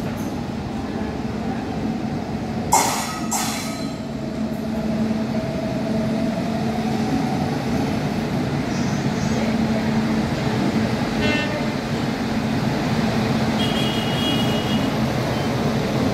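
WAP7 electric locomotive hauling an express train slowly along a platform: a steady rolling rumble with a low hum from the locomotive. Two short, loud bursts come about three seconds in.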